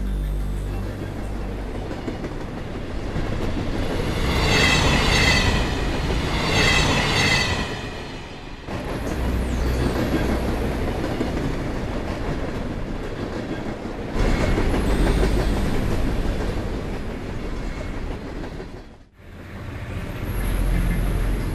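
Passenger train running on the rails, a steady rumble and clatter that changes abruptly a few times and drops out briefly near the end. About four seconds in come two high, wavering squeals, each about a second long.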